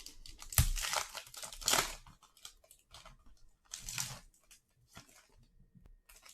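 Foil wrapper of a trading card pack being torn open and crinkled, loudest in the first two seconds, with a further crinkle about four seconds in.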